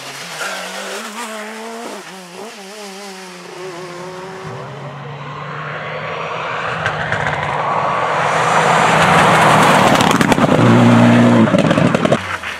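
Rally car engine revving up and down as it is driven hard, then growing louder as the car approaches at speed with a swelling rush of tyre noise, loudest near the end.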